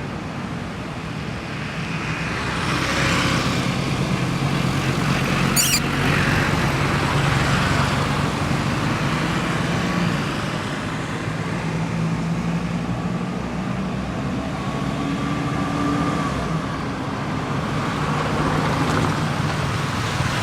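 Road traffic: motor vehicle engines running as vehicles pass, with a low hum that rises and falls. There is one brief sharp high-pitched sound about six seconds in.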